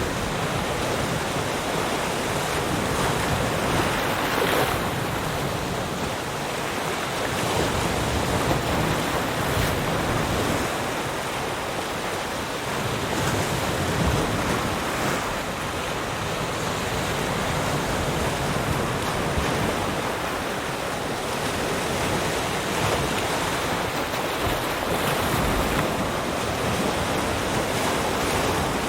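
Ocean surf: waves breaking and washing in continuously, swelling and easing every few seconds, with some wind.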